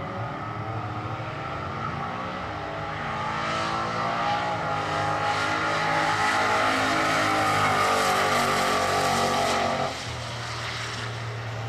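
Holden Commodore drag car at full throttle on a quarter-mile pass: the engine note climbs, drops back at each gear change and climbs again, then falls away suddenly near the end.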